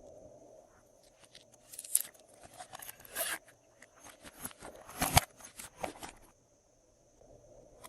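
Slime being worked by hand: a run of sticky crackles and pops, loudest about two, three and five seconds in, then stopping about six seconds in.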